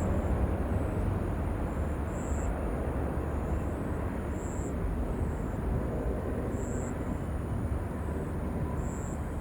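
Jet airliner engine rumble, slowly fading as the aircraft moves away. A short high chirp repeats about every two seconds over it.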